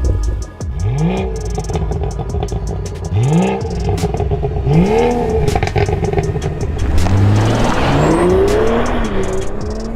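BMW 340i's turbocharged straight-six engine through a Scorpion non-resonated cat-back exhaust, blipped up and back down three times, about one, three and five seconds in. Near the end it climbs in revs for about two seconds and then drops back.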